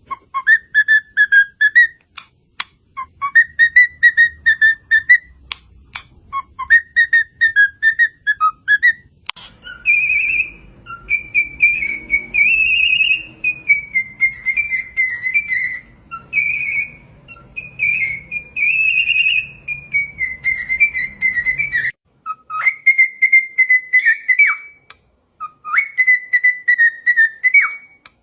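Parrot whistling a tune in short, repeated phrases of clear notes that slide up and down, with a short break near the end.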